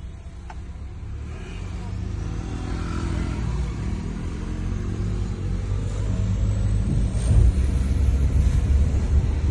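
A repaired BMW's engine running as the car gets under way. The low rumble grows steadily louder, with a faint whine rising in pitch over the second half, and it is called smooth.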